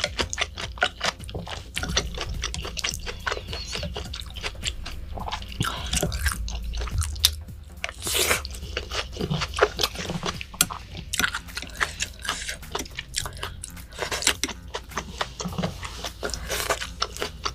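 Close-miked chewing, with a steady run of quick wet clicks and smacks of the mouth and a few sharper ones.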